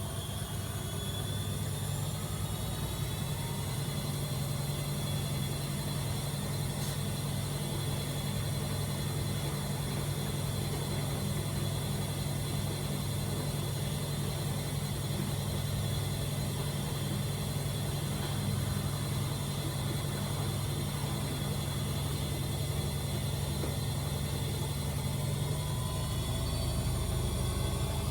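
AEG Öko-Lavamat 74780 washing machine spinning its drum: a steady motor hum and whine, rising in pitch as it speeds up in the first few seconds, holding steady, then rising again near the end.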